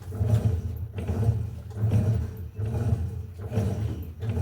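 Electrolux LTE08 top-load washing machine agitating: the motor hums low while the agitator swishes the load back and forth in regular strokes, roughly one every half-second to second, during the wash phase before the soak.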